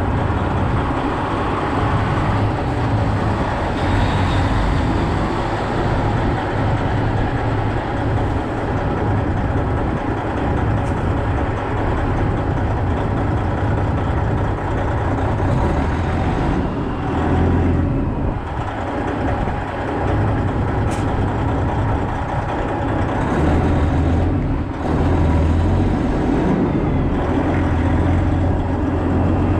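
Semi truck's diesel engine running steadily with a low hum.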